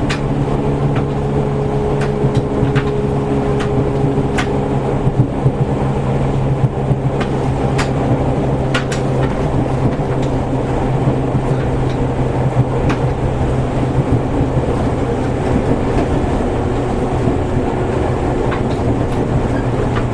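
Seibu 101-series electric train heard from inside its motor car while running: a steady low hum from the traction motors and gearing over wheel-on-rail rumble. Sharp clicks from the rail joints come irregularly, every second or two.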